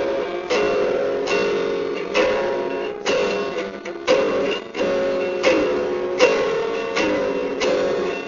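Guitar music: chords strummed at a steady pace, each one ringing out before the next.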